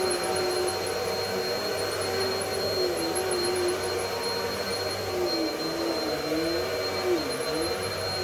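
Bissell PowerLifter Pet upright vacuum running steadily, with a constant high whine over the motor's drone; the motor's pitch wavers and dips several times, most in the second half.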